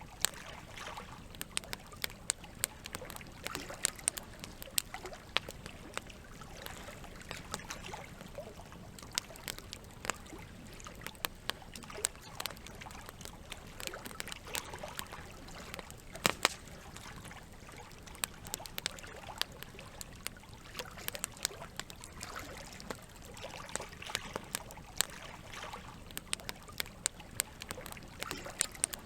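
Campfire crackling, with frequent irregular sharp pops (the loudest about 16 seconds in), over a steady wash of running water.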